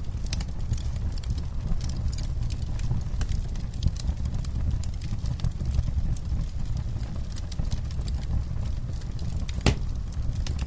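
Campfire burning: a steady low rumble under frequent sharp crackles and pops, with one louder pop near the end.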